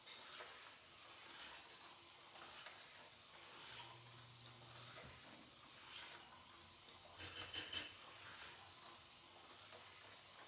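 Aurora HO slot car running on a small track, faint: a hissing whir with light clicks and rattles, a low hum for about a second near the middle, and a quick cluster of clicks about seven seconds in.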